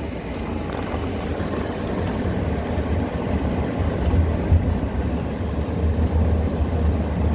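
Mercury Montego sedan driving slowly up a rough, broken paved road: a low, uneven rumble of engine and tyres that grows gradually louder.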